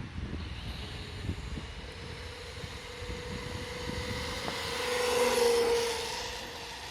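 An electric RC monster truck's brushless motor whine and tyre hiss, growing louder as the truck approaches, peaking about five seconds in, then fading as it passes away. Low wind rumble on the microphone underneath.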